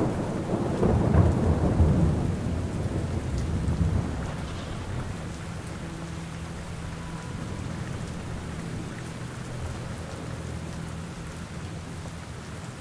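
Steady rainfall with a low roll of thunder that rumbles through the first few seconds and dies away, leaving the even sound of rain.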